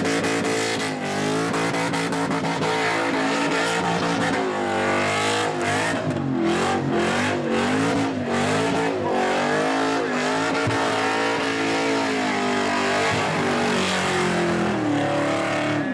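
Holden VN/VS Commodore V8 doing a burnout: the engine is held at high revs that rise and fall over and over, with the rear tyres spinning and screeching.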